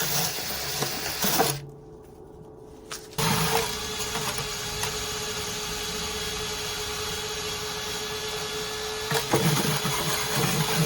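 A motor running steadily with a constant hum over a rushing noise. It drops out abruptly about a second and a half in and comes back about a second and a half later.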